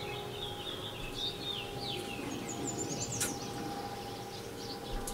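Small birds chirping outdoors, a quick run of short high calls and slurs through the first three seconds or so, over a faint steady hum, with one brief click about three seconds in.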